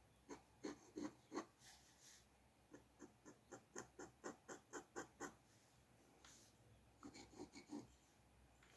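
Faint drawing strokes scratching on paper, hatching back and forth. There are four strokes, then a steady run of about a dozen at roughly four a second, then a few more near the end.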